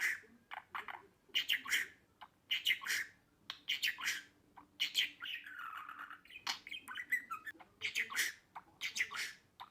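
Budgerigar chirping and chattering: clusters of sharp, squawky chirps that come again about once a second, with a longer warbling call about halfway through.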